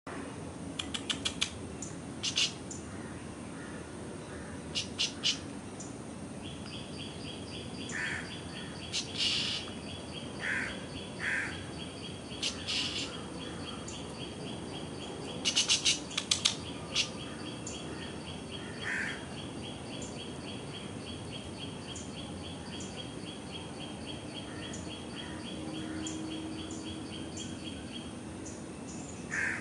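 Birds chirping and calling, with clusters of short sharp chirps and a few lower calls. A long, even, rapid trill starts about a fifth of the way in and stops near the end.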